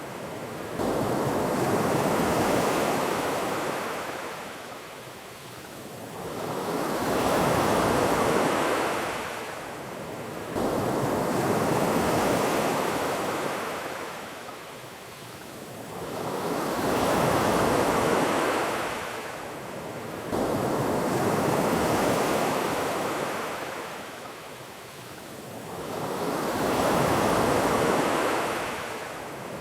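Ocean surf washing on a beach, surging and receding about every ten seconds, three times over; each surge comes in abruptly.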